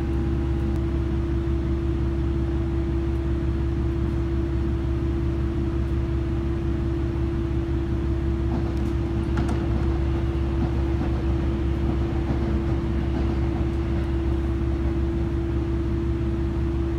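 Steady hum of a stopped train's onboard machinery, heard inside the carriage: a low rumble with one constant tone over it, while the train waits at the station.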